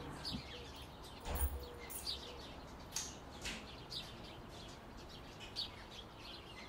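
Faint chirping of small birds: short high calls at irregular intervals, with one soft low thump about a second and a half in.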